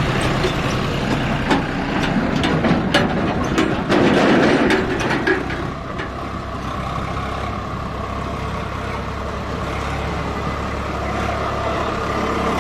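Swaraj 744 tractor's diesel engine running steadily, with a run of sharp clicks and knocks over the first five seconds or so before it settles into an even note.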